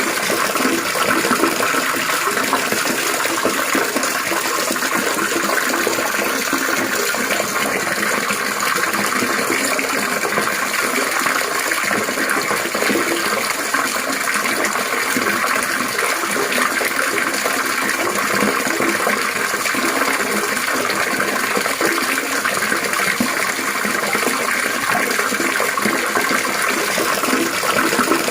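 Running water trickling and splashing without a break, a steady babbling with no pauses or changes.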